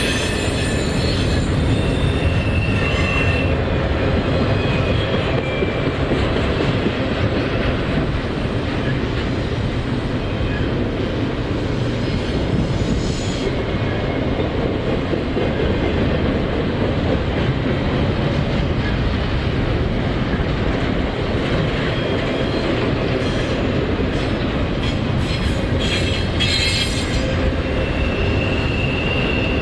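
CSX intermodal freight train rolling past, its wheels running steadily on the rails, with brief high wheel squeals about two seconds in and again near the end.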